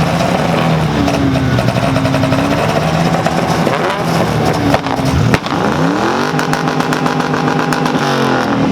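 A vehicle engine is revved several times, with brief held revs, then one rev climbs steeply, holds and drops back near the end. A single sharp crack comes just before that last climb.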